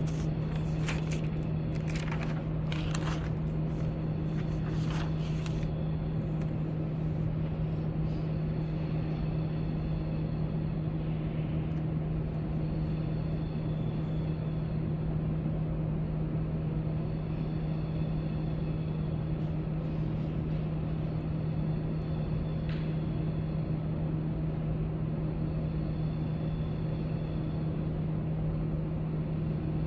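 Library room tone: a steady low hum over an even background noise. A few short clicks and taps come in the first six seconds.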